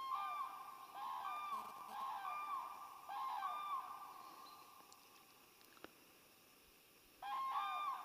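Large birds calling: loud ringing calls, each an arching note with a lower and a higher voice overlapping, repeated about once a second for the first four seconds, then again near the end.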